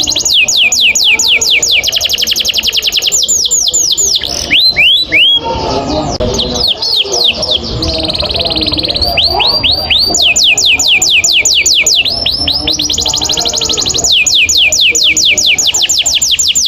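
Domestic canary singing a long rolling trill: rapid runs of falling notes, roughly ten a second, with a short break of slower swooping notes about five seconds in.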